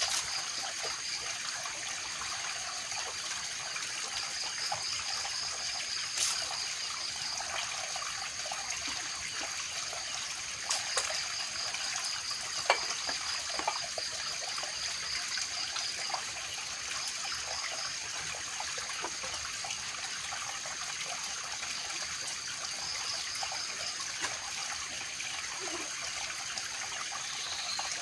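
Water trickling steadily, with a pulsing high tone and a steadier, higher tone running over it, and a few sharp clicks.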